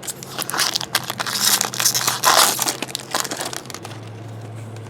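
Plastic trading-card pack wrapper crinkling and crumpling as it is handled, a run of crackly rustles that dies away near the end, over a low steady hum.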